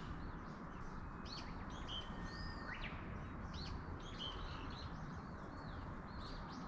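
Several small birds chirping, with many short, quick high calls and sweeping notes overlapping throughout. Under them is a steady, even rushing background.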